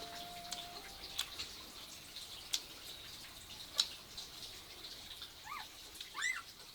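Faint scattered sharp ticks, with a held tone dying away within the first second and two short rise-and-fall bird chirps near the end.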